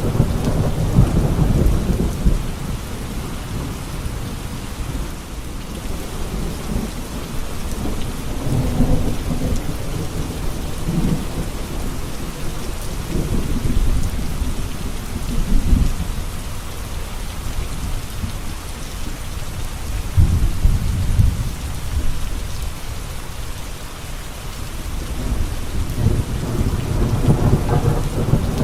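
Steady rain with thunder rumbling low and rolling, swelling and fading every few seconds, strongest near the start and near the end.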